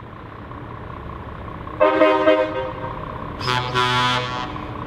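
Truck horns sounding two blasts over steady background noise: the loudest comes about two seconds in and lasts under a second, and a second, brighter blast follows about a second and a half later.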